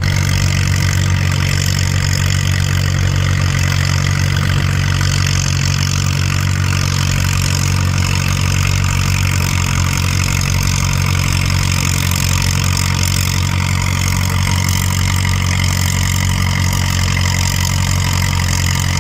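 Antique farm tractor engine idling steadily and loudly at an even pitch.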